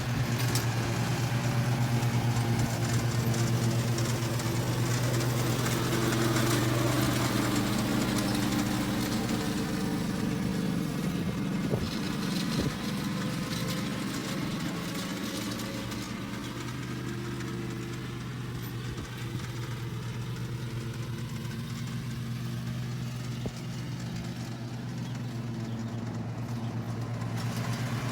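Husqvarna R322T lawn tractor's engine running at a steady pitch, working under way. It gets somewhat quieter past the middle and louder again near the end.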